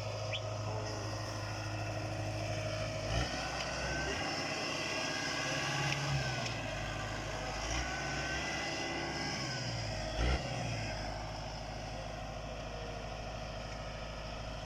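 Kubota M7040 tractor's diesel engine running, its note rising and falling between about three and eleven seconds in, with a short thump about ten seconds in.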